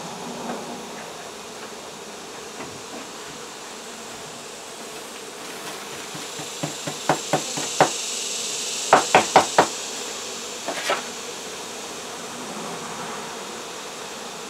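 Honey bees from an exposed colony buzzing steadily, with a series of sharp knocks and taps in the middle, the loudest being four in quick succession about nine seconds in.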